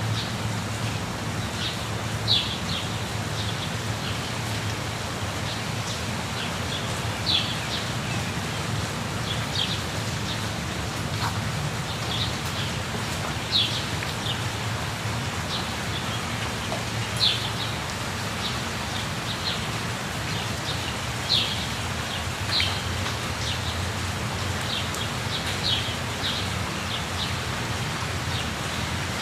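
Steady rushing of falling water in a jungle, with birds giving short, high chirps every few seconds over it.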